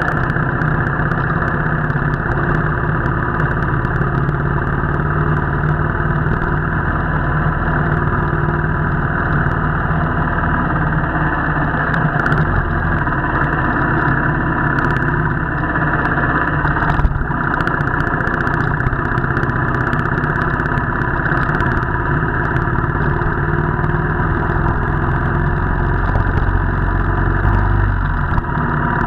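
Royal Enfield motorcycle's single-cylinder engine running steadily during the ride, muffled, with no big revs.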